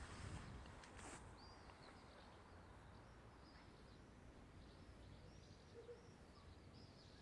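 Near-silent outdoor ambience with small birds chirping faintly: short, high calls repeated many times.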